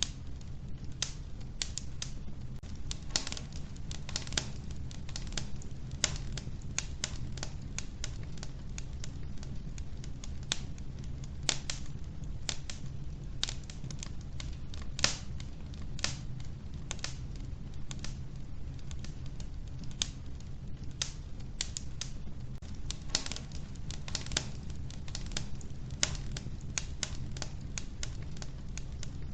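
Wood fire burning in a wood stove: irregular sharp crackles and pops from the burning logs, several a second, over a steady low rumble of the flames.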